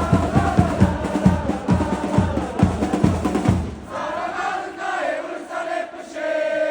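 Football supporters' crowd chanting in unison to a big bass drum; the drums stop a little under four seconds in and the crowd sings on alone, ending on a long held note.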